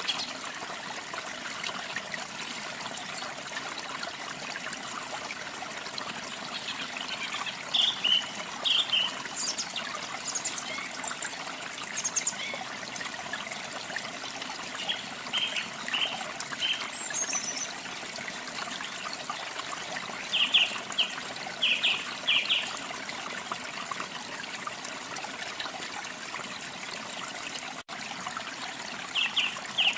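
Steady flowing water, like a stream or small waterfall, with small birds chirping in short groups of quick high notes every few seconds.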